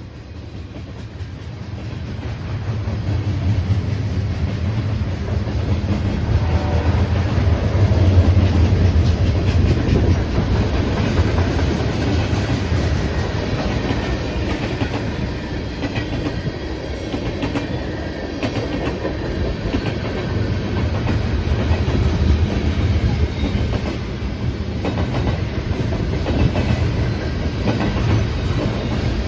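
A train rolling past: a heavy low rumble with the clicking of wheels over the rail joints, growing louder over the first several seconds and then holding steady as the cars go by.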